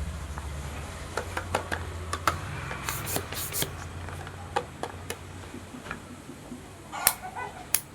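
Tiny balloons popping one after another: a run of short sharp pops and clicks, the loudest clustered about three seconds in and two more near the end, over a low hum that fades out in the first few seconds.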